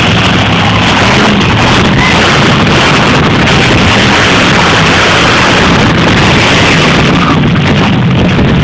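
Monster truck engine running loud and steady, its low engine note under a dense, overloaded noise.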